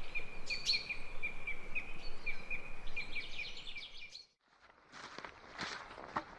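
Birdsong: repeated high chirps over a steady high tone, ending in a fast run of notes, then cut off abruptly about two-thirds through. Fainter rustling and scattered clicks of movement follow.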